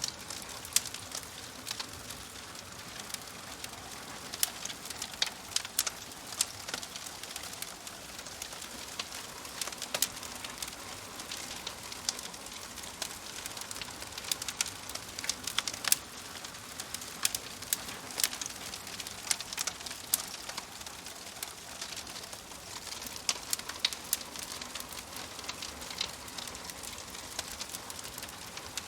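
Wood fire burning in a fireplace: a steady hiss with irregular sharp crackles and pops from the burning logs.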